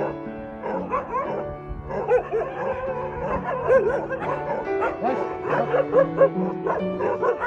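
A small dog yipping and whining in short, rising-and-falling cries, many times, over background music with held piano-like notes.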